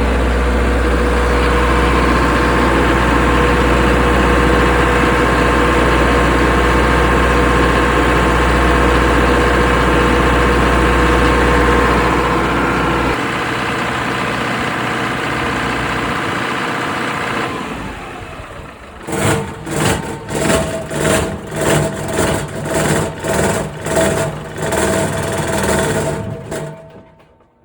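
A houseboat's 32-kilowatt generator running steadily on its first start since being winterized: a loud, even hum that thins out about halfway through. After that comes an uneven pulsing at roughly one beat a second, and near the end the sound fades away.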